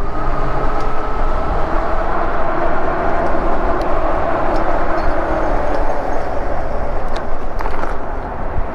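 Steady rumble of wind and tyre noise from a moving e-bike, with a faint steady whine and a couple of light knocks near the end.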